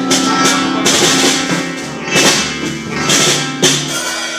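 Live rock band at a soundcheck: a drum kit played in scattered loud hits with ringing cymbals, over steadily held instrument notes.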